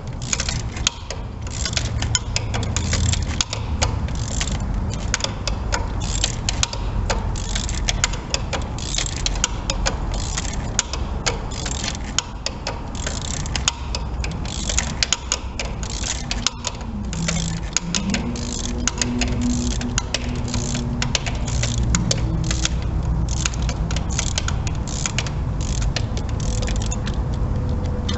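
Hand socket ratchet clicking in quick, continuous runs of strokes while a spark plug is worked out of the engine.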